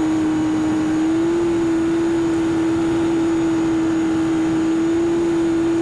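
Cessna 210K's engine and propeller drone, a steady hum that steps up slightly in pitch about a second and a half in.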